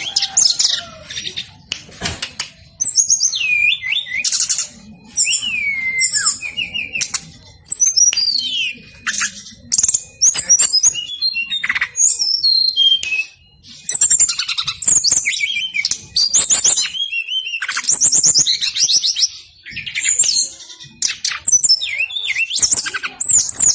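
Brown-chested jungle flycatcher singing insistently: a varied, fast song of chirps, rapid trills and downward-sliding whistles, phrase after phrase with only short breaks.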